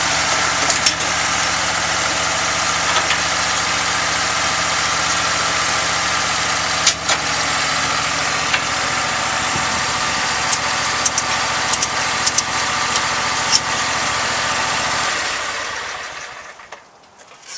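Lawn mower engine running steadily at idle, with a few light clicks, then dying away over the last couple of seconds.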